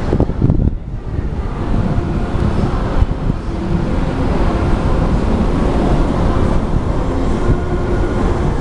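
Wind buffeting the microphone on the deck of a moving cruise ship, over a low steady rumble from the ship.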